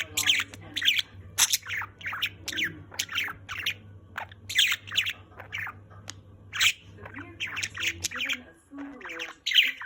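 Budgerigar chattering: a continuous run of short chirps and squawks.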